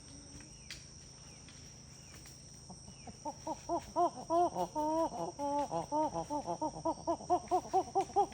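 A fast series of short, repeated animal calls, each rising and falling in pitch at about three a second, starting about three seconds in and growing louder. A steady high insect drone runs underneath.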